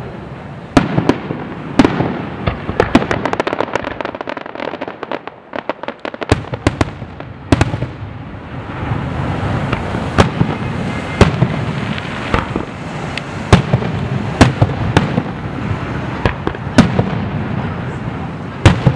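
Fireworks display: aerial shell bursts booming one after another. A dense run of small crackling reports comes a few seconds in, then a brief lull, then booms resume roughly once a second.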